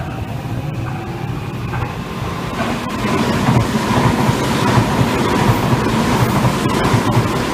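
Tobu 100 series 'Spacia' limited express train passing at speed. The rush of noise swells about three seconds in as the cars go by, with regular clacks of the wheels over rail joints and a steady whine.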